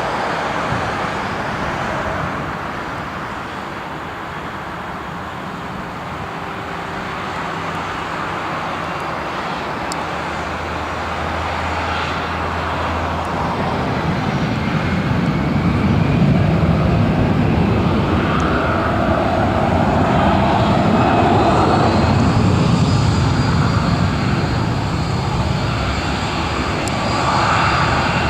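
Airbus A320 jet engines at taxi power as the airliner taxies past. The engine noise grows louder over the first half and then holds steady, with a high whine that rises slightly about two-thirds of the way through.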